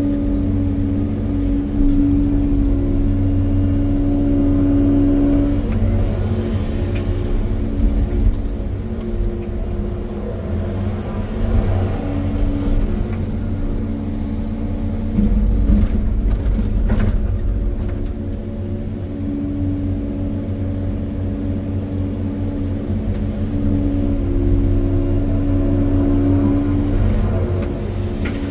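Caterpillar 395 hydraulic excavator's diesel engine running under load, its steady drone swelling and easing several times as it works. A few sharp knocks come a little past the middle.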